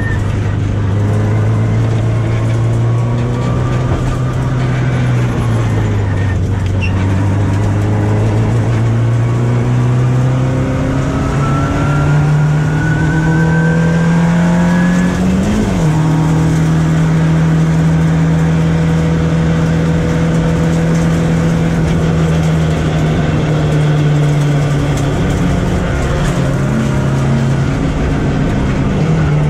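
VW Golf Mk1 race car's engine heard from onboard, pulling hard, its note climbing and falling with the throttle. There are brief dips about five seconds in, around halfway and near the end.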